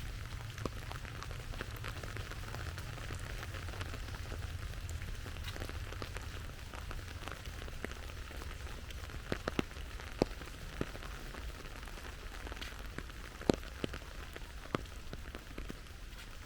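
Steady rainfall with many individual drops tapping close by. A few sharper, louder drop hits stand out, around ten seconds in and again a little later.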